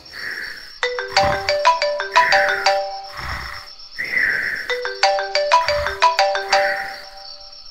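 Phone ringtone melody of short bright notes, played twice with a pause between, over the steady chirring of crickets.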